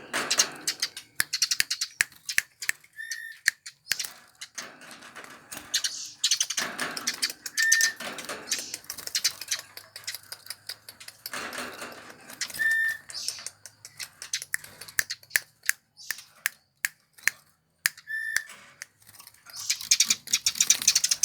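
Eurasian tree sparrows chirping and chattering in rapid bursts, with a short clear whistled note repeating about every five seconds.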